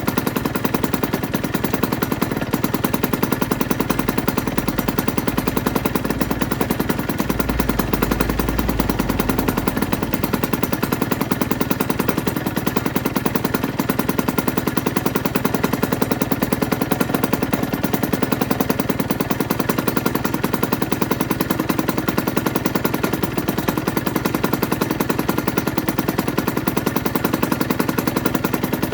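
Aprilia RS125's single-cylinder two-stroke engine running steadily at constant speed, a rapid, even string of exhaust pops with no revving.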